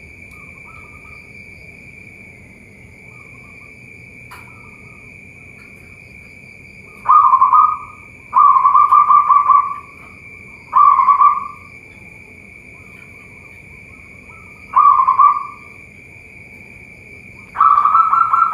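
Zebra doves (perkutut) cooing: faint distant coos at first, then from about seven seconds in a bird close by gives five loud phrases of low, purring coos, the last running on at the end. A steady high-pitched whine sits underneath throughout.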